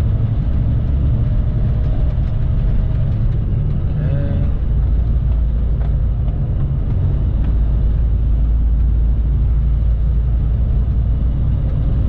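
Steady low rumble of an International LT semi truck's engine and road noise heard inside the cab while driving.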